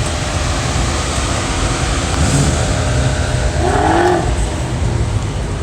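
Car engines running, a steady low rumble, with a short rising tone about three and a half seconds in.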